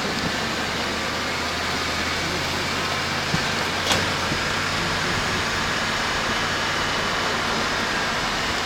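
A car driving along a road: steady engine hum and road noise, with two short faint clicks about three and a half and four seconds in.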